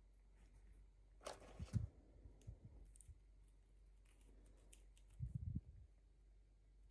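Quiet handling of toy packaging: a brief rustle about a second in, a few soft bumps and small clicks, and another pair of soft bumps a little after five seconds.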